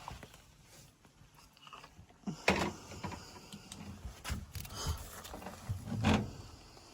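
Scattered handling noises, knocks, scrapes and rustles, with the two loudest knocks about two and a half and six seconds in.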